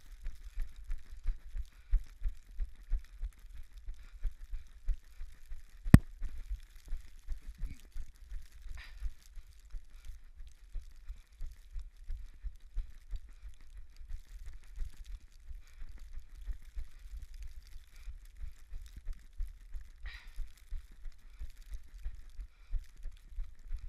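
Running footfalls thudding in a steady rhythm, about three a second, with a single sharp knock about six seconds in.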